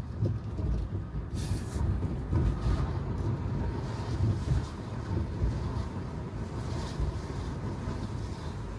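Steady low road rumble of a Tesla Model 3 driving on wet pavement, with no engine note. A short hiss about a second and a half in, and a fainter one near the end.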